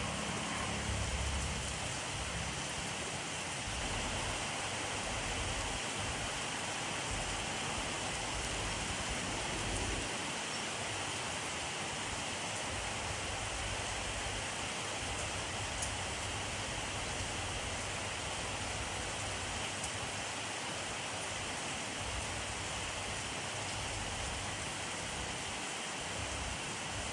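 Steady rainfall, an even hiss of rain with drops hitting surfaces and no change in intensity.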